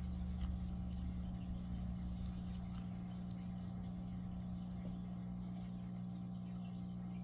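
Steady low hum with several fixed pitches, a little louder for the first couple of seconds, with faint soft ticks of yarn and a darning needle being handled during whip-stitching.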